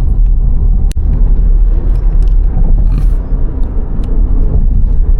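Steady low rumble of a car driving at road speed, heard from inside the cabin, with a brief click about a second in.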